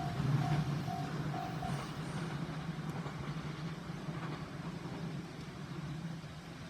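A passing electric train's rumble slowly fading as it moves away. The level crossing's warning bell rings about two dings a second for the first couple of seconds, then stops.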